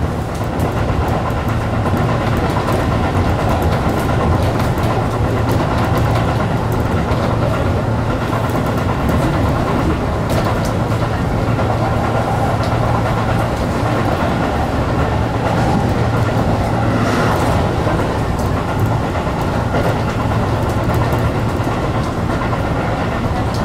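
Tobu Urban Park Line electric commuter train running at speed, heard from inside the front car: a steady rumble of wheels on rail with a constant motor hum and occasional faint clicks over the rail joints.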